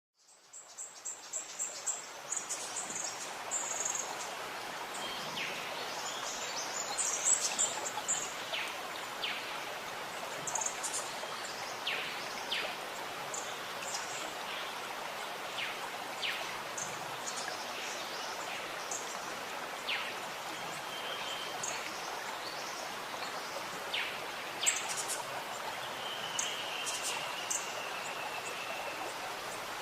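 Running, gurgling water gives a steady rush, with several birds chirping and calling over it in short, scattered high notes and one longer held call near the end. The sound fades in over the first couple of seconds.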